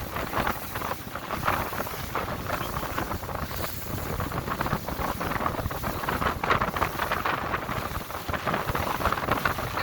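Motorboat under way, with wind buffeting the microphone over the rush of water and engine noise.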